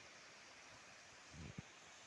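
Near silence: a faint steady hiss, with a soft low thud about one and a half seconds in.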